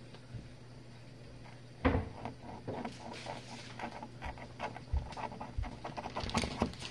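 Whirlpool dishwasher running its wash, a steady low hum with irregular clattering and tapping from about two seconds in as the water spray strikes and rattles the dishes inside.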